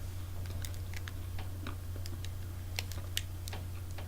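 Someone biting into and chewing a crunchy fruit-and-nut bar: small crunching clicks at irregular spacing, over a steady low hum.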